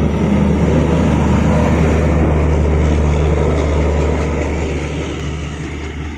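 Train in motion: a loud, steady low drone with rail rumble, gradually fading over the last two seconds.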